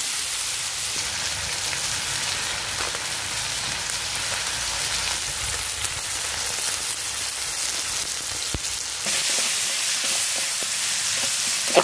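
Chicken pieces sizzling as they sauté in hot oil with garlic, onion and ginger: a steady frying hiss that grows louder about nine seconds in.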